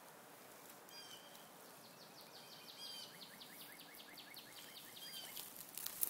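Faint bird calls: three short high calls about two seconds apart, with a rapid ticking trill running through the middle, then a brief rustle near the end.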